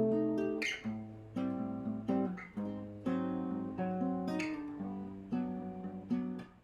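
Acoustic guitar playing a backing track: chords strummed every half second to a second, each left to ring and decay.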